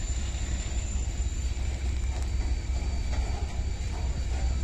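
Double-stack container freight wagons rolling past close by: a steady low rumble of steel wheels on the rails.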